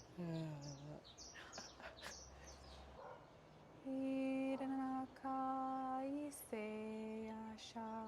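A woman singing long, wordless held notes: two on a higher pitch, then two on a lower one, each held about a second, after a short falling vocal sound at the start. Faint bird chirps can be heard in the gap before the notes.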